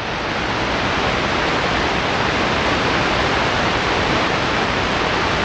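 Steady radio static: a loud even hiss from an SDR airband receiver with its squelch open, with no voice on the frequency.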